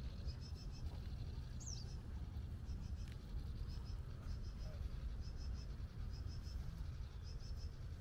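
Small birds chirping: short high chirps in quick groups of three or four, repeating every second or so, with one high falling whistle about two seconds in, over a steady low rumble.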